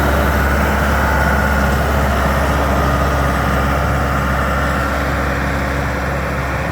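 Diesel engine of a 2007 John Deere 5425 tractor running steadily at a constant speed.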